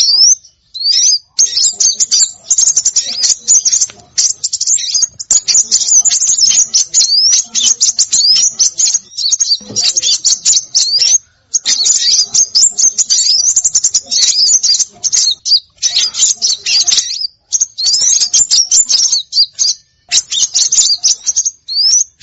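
Dense, high-pitched chirping and twittering of several small songbirds, with quick rising whistled sweeps. A small-bird lure-call mix, it stops briefly a few times, near the start and around the middle.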